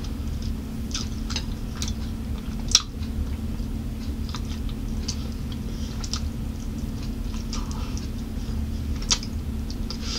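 Close-miked chewing and wet mouth smacks of someone eating baked barbecue chicken wings, with scattered small clicks and a sharper smack about three seconds in and another near nine seconds, over a steady low hum.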